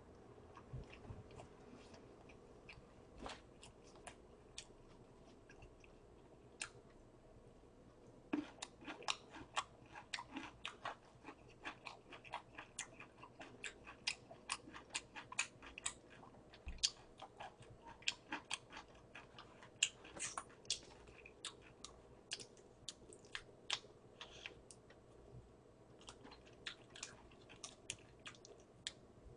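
A person chewing a mouthful of burger, close up: faint wet mouth clicks and smacks. They come sparsely at first, then quickly and steadily from about eight seconds in.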